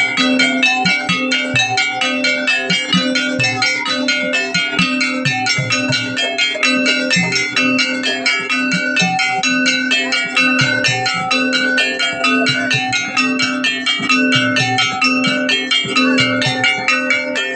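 Jaranan gamelan music: fast, dense runs of ringing struck metal-keyed notes over a steady low tone, with irregular drum strokes underneath.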